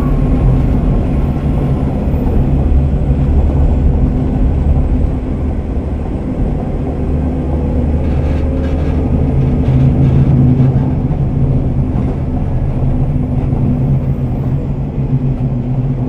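KiHa 47 diesel railcar heard from inside the car: a steady low drone from the underfloor diesel engine and running gear as the train travels. It is muffled, because it was recorded from a pocket.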